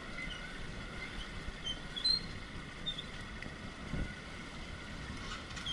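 Off-road motorcycle running at low speed over a rough trail, an uneven low rumble with a couple of knocks. Short high chirps of birds sound over it.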